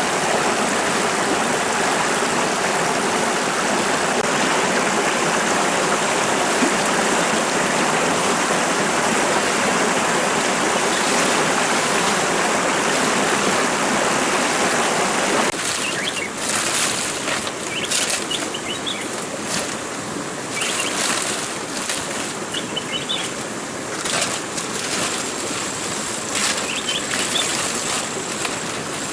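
Steady rushing of stream water that cuts off abruptly about halfway through. After it comes quieter forest ambience with small birds chirping and intermittent short rustles or knocks.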